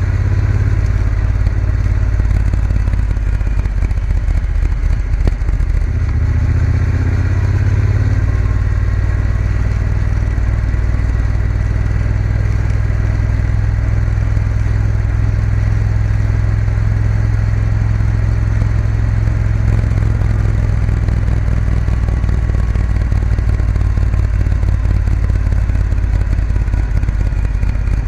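Triumph Bonneville T120 parallel-twin engine running steadily as the motorcycle is ridden along a road, its engine note shifting once around six to eight seconds in and then holding even.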